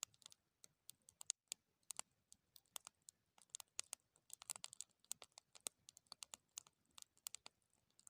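Faint crackling of a wood fire: irregular small pops and snaps, several a second.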